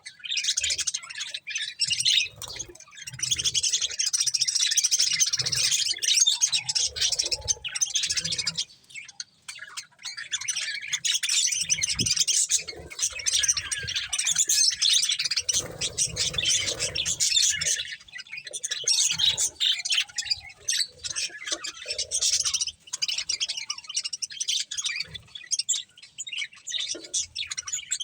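Budgerigars chirping and chattering in a dense, rapid stream of high chirps, with a short lull about nine seconds in.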